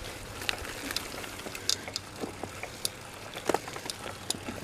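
Bicycles moving along a dirt trail: a steady rustle with scattered light clicks and rattles.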